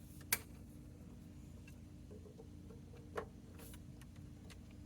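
A few small clicks and light knocks from handling wires and parts inside an oscilloscope's chassis, with a sharp click about a third of a second in and another a little after three seconds, over a faint steady hum.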